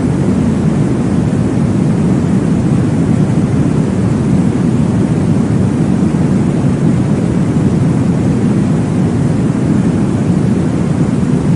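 Steady, deep, muffled noise for baby sleep, a continuous low whoosh with no distinct beats or breaks.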